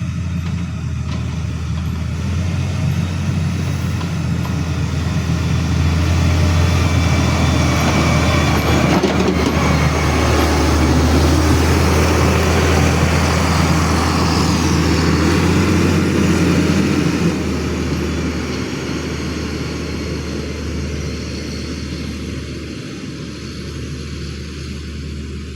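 Heavy vehicle engine running with a steady low drone. It grows louder toward the middle, then slowly fades.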